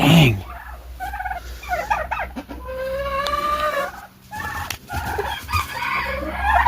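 Penned domestic poultry calling: a string of overlapping squawks and clucks, some gliding up and down in pitch.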